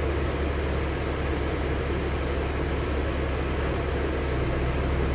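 Steady running noise heard inside the cabin of a LiAZ-6213.65 articulated city bus: an even engine and road rumble with a deep, constant hum.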